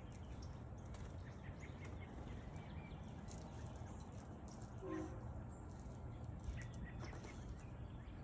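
Faint background ambience with scattered light ticks and one short, pitched whine about five seconds in.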